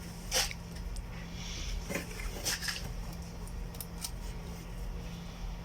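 A few light metallic clicks and clinks of tools and engine parts being handled at an open cylinder head, the loudest about half a second in, over a steady low hum.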